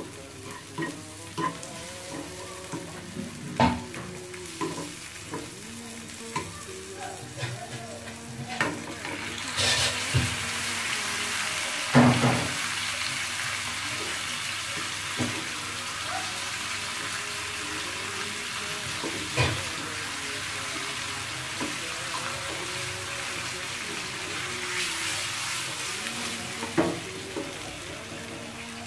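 Onions and fish steaks sizzling in oil in a nonstick pan, with a spatula knocking and scraping against the pan. The sizzle grows much louder about ten seconds in, when the fish steaks go back into the hot onions.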